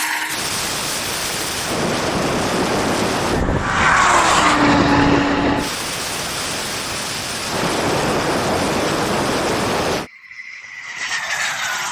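Loud rushing roar of supercars at speed in a drag race, engine, tyre and wind noise together. Its character shifts every couple of seconds. A whine falls in pitch about four seconds in, and the roar cuts off just after ten seconds, followed by another falling whine as a car slows.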